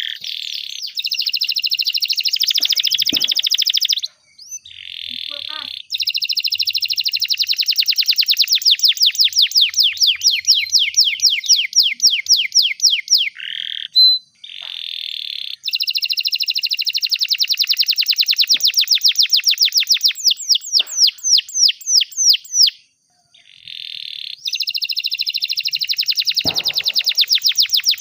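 Domestic canary singing: long, fast trills of rapidly repeated high notes, delivered in extended phrases broken by a few short pauses.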